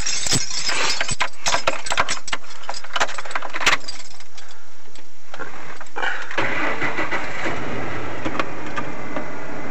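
Keys jangling and clicking. About six seconds in, a 1996 Ford truck's engine cranks briefly and catches on a cold start after sitting for two days. It then idles steadily.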